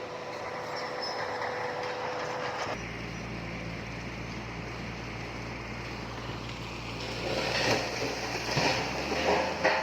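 Heavy diesel earthmoving machinery running steadily; the engine sound changes abruptly about three seconds in. Clattering knocks and scraping start near the end, as stone and metal work against each other.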